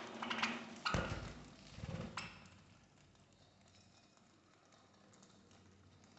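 Pet budgerigars chirping briefly, with a dull knock about a second in and another short sound near two seconds, then only faint background.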